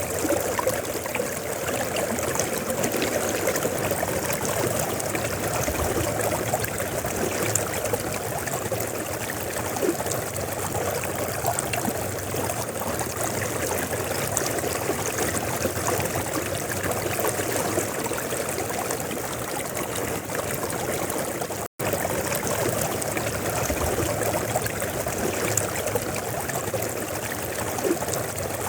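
River water flowing with a steady rushing, trickling sound. The sound cuts out for an instant about three-quarters of the way through.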